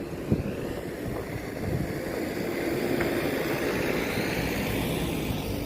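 Aircraft passing overhead, its engine noise swelling to a peak about three to four seconds in and then easing, with wind rumbling on the microphone.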